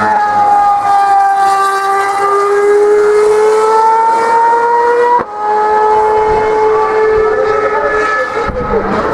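A 2013 Formula One car's 2.4-litre V8 engine at high revs, a high held note climbing slowly in pitch. About five seconds in it breaks off for an instant at a gear upshift and carries on at a lower pitch.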